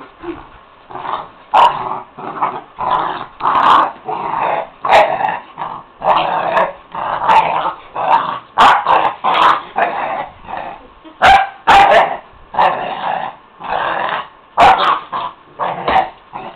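Labradors growling and barking in rough play, a steady run of short growls broken by sharp yips and barks.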